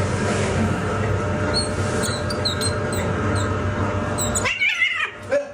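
A cat meowing once, loudly, near the end, over a steady low hum scattered with short high chirps.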